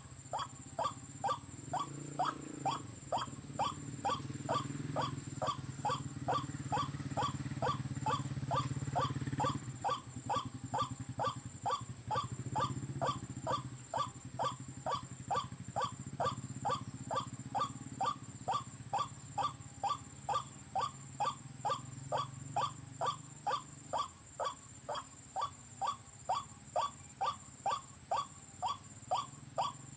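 White-breasted waterhen calls played from an electronic bird caller: an even, fast series of sharp croaking notes, about two a second, over lower moaning calls that come and go.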